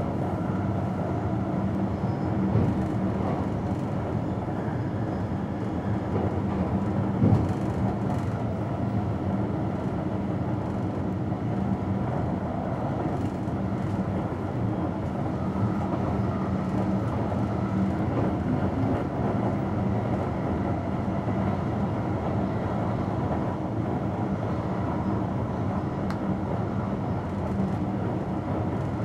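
Electric passenger train running steadily at speed, heard from the driver's cab: a continuous rumble of wheels on rails with a steady low hum. There is a brief louder knock about seven seconds in.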